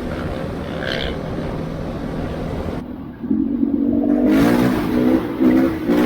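A motor engine running steadily, then, about three seconds in, a louder engine revving, its pitch stepping up and dropping back several times.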